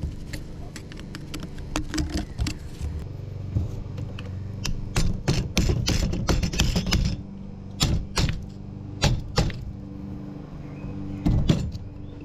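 Repeated sharp metallic clicks and clanks of hand tools and parts being handled during a repair, over a steady low hum. The clanks come thickest in the middle and once more near the end.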